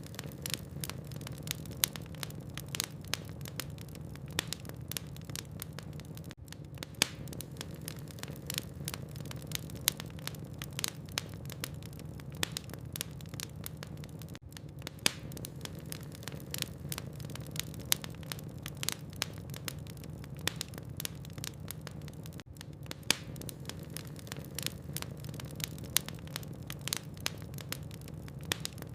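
Logs burning in a fireplace, crackling with frequent, irregularly spaced pops and snaps over a low steady hum.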